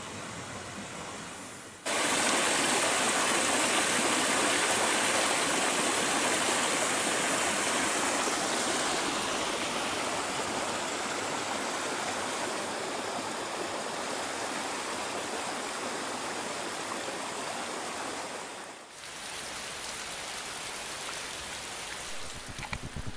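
River water rushing: a steady, even noise. It gets much louder suddenly about two seconds in, fades a little, then drops back suddenly to a quieter rush near the end.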